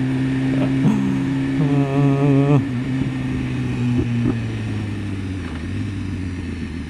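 BMW S1000RR's inline-four engine running steadily under way, its revs dropping a little after about four seconds. A short wavering vocal sound comes about two seconds in.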